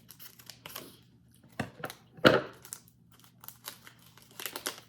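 Plastic snack wrapper crinkling and being torn open by hand: scattered small crackles and clicks, with one louder burst a little over two seconds in.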